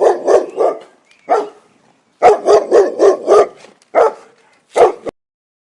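A dog barking: a quick run of barks, a single bark, another quick run, then two single barks near the end.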